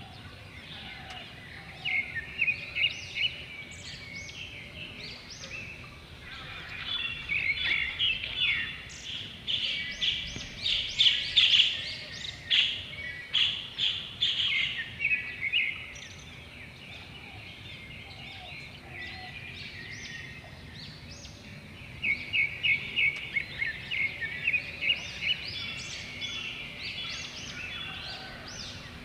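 Several birds chirping in bouts of quick, repeated high notes, busiest in the middle and again near the end, over a steady low background rumble.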